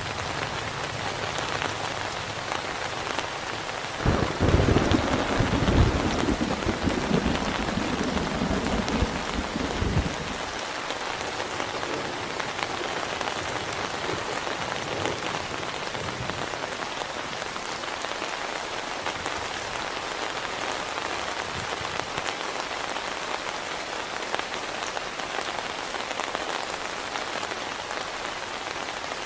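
Heavy rain falling steadily, with a deep roll of thunder that breaks in suddenly about four seconds in and rumbles for some six seconds before dying away.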